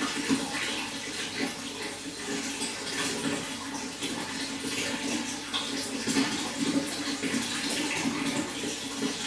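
Running water pouring and splashing steadily, with many small splashes.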